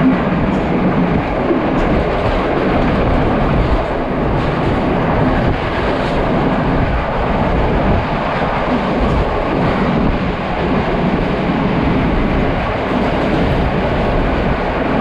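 Passenger train running at speed, heard through an open carriage window: a loud, steady rush of wheel-on-rail noise with irregular knocks and rattles.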